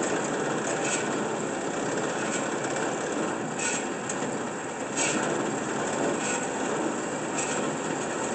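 Kalamazoo 9AW V horizontal band saw running at the slowest setting of its variable-speed drive: steady motor and blade noise, with a light tick about every second and a quarter.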